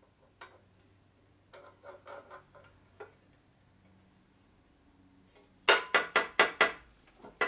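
A few light clicks and taps, then near the end a quick run of about six sharp metallic clinks, about four or five a second: steel clamping hardware such as step blocks and clamps being handled and knocked together while a workpiece is set up for machining.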